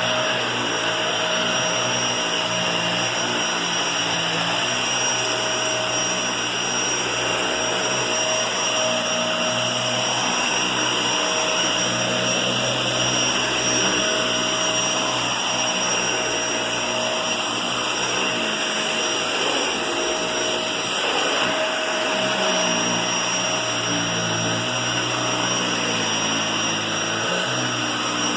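Vacuum cleaner running steadily: a constant motor whine over rushing air, without a break.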